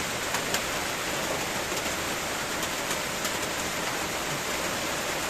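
Heavy rain falling steadily: a dense, even hiss with a few faint drop ticks.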